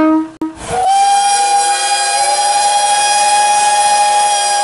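A low horn-like note cuts off abruptly a moment in. Then a steam locomotive whistle opens with a rush of steam and blows one long steady blast, several tones sounding together.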